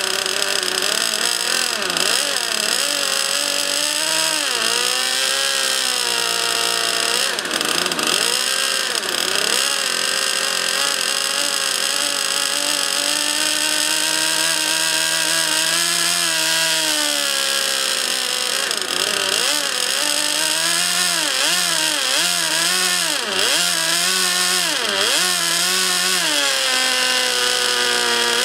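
Small model jet turbine engine of an RC jet running on the ground, with a steady high-pitched whine and a lower running tone that keeps swinging up and down in pitch.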